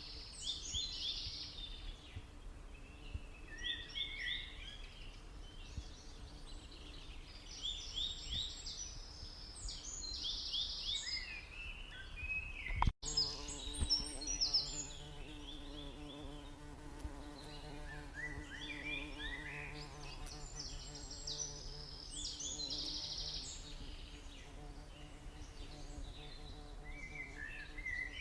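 Birds singing repeated phrases of quick high chirping notes every few seconds, over a low steady buzzing hum of stingless bees. The sound drops out for an instant about halfway through.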